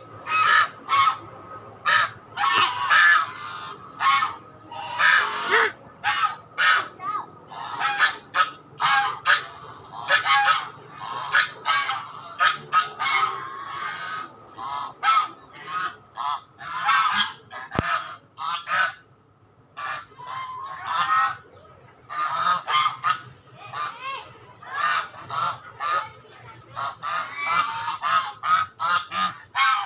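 Swans calling: a long run of short, nasal calls one after another, sometimes overlapping, with a brief lull about two-thirds of the way through.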